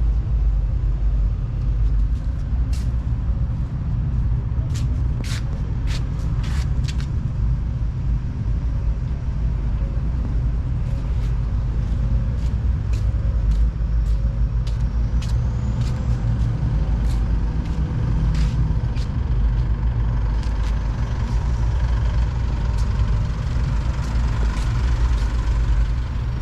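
Low, steady rumble of classic car engines running and rolling past, with scattered sharp clicks.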